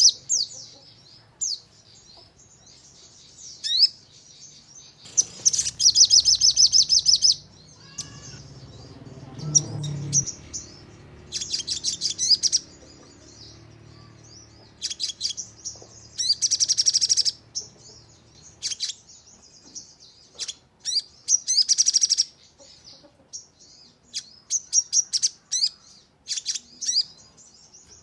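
Sogon birdsong: rapid, high-pitched trills in bursts of one to two seconds, the fast 'nembak' song, with single sharp chirps between the bursts.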